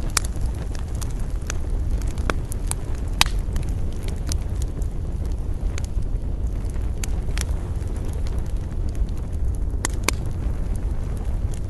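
Wood campfire crackling, with sharp pops at irregular intervals and a close pair near the end, over a steady low rumble of wind.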